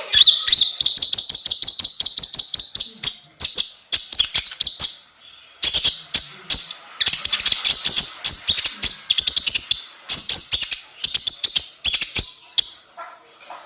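A konin (kolibri ninja) songbird singing steadily, in rapid chattering runs of high, sharp chirps, several phrases in a row with short breaks between them.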